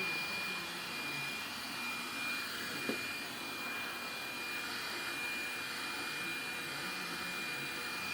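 Agaro robot vacuum cleaner running, a steady whir with a thin high whine, and a single short click about three seconds in.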